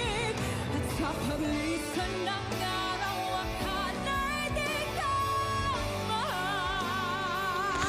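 A woman singing a heartbreak ballad over backing music, holding long notes with a wavering vibrato, most clearly in the second half.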